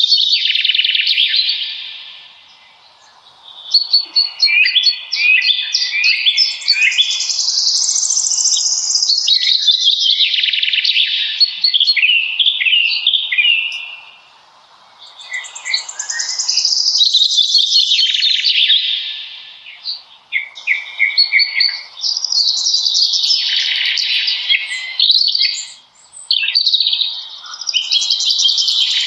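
Songbirds singing in a birch forest in spring: long, rapid warbling phrases of trills and chirps that follow one another almost without a break, with short lulls about three seconds in, halfway through and near the end.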